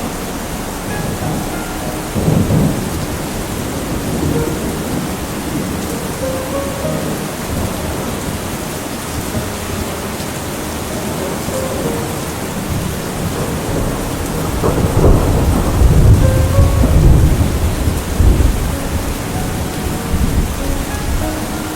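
Steady heavy rain with thunder rolling underneath; a brief rumble about two seconds in, and a longer, louder roll of thunder about two-thirds of the way through.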